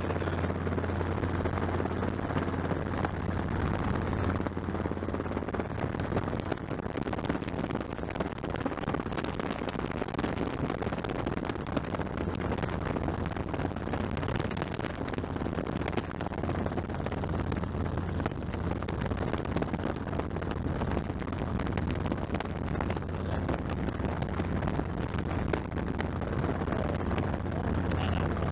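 Helicopter in flight: a steady drone of the rotor and engine.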